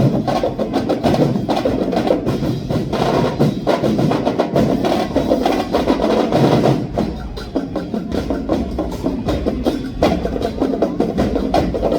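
Dinagyang festival drum ensemble playing a dense, fast percussion beat. It eases off a little about seven seconds in and returns at full strength about ten seconds in.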